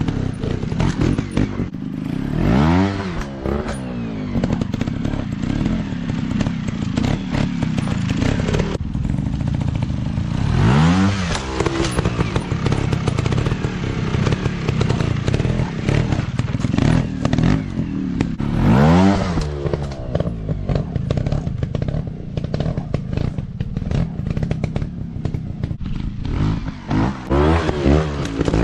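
Dirt bike engines running under a steady drone, with the revs swinging sharply up and back down about four times, several seconds apart.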